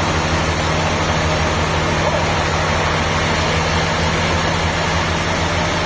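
An engine running steadily at low speed, an even low hum that keeps the same pitch throughout.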